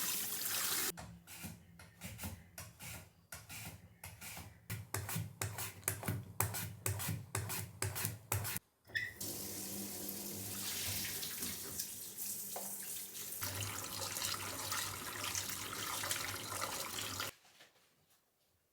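Water running from a tap into a sink. For several seconds the flow is broken by irregular splashes and knocks as something is washed under it, then it runs steadily again and cuts off near the end.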